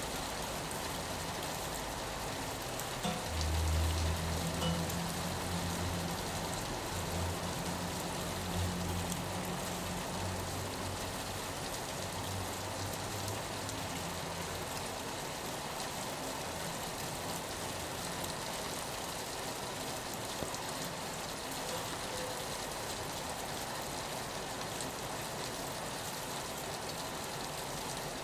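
Steady rain falling on a window. A low rumble comes in about three seconds in and fades away over the next ten seconds or so.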